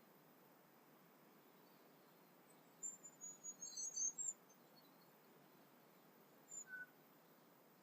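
Bird song: a quick run of high, thin notes about three seconds in, lasting just over a second, then a short call near the end, over faint background hiss.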